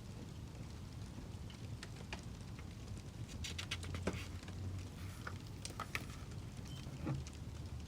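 Wood fire crackling: scattered sharp pops and snaps over a low rumble, with a quick run of crackles about three and a half seconds in.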